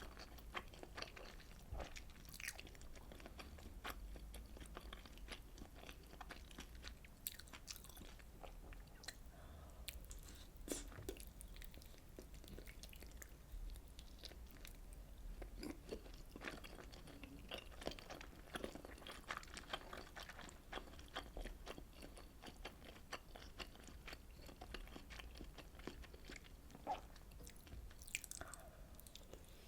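Close-miked chewing of fish cake soup, with wet mouth sounds and many small irregular clicks, faint over a low steady hum.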